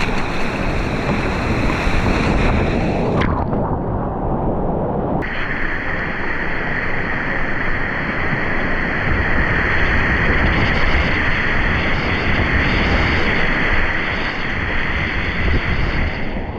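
Rushing river whitewater, with wind noise on the microphone: a loud, steady hiss that dulls for a moment about three seconds in and returns about five seconds in.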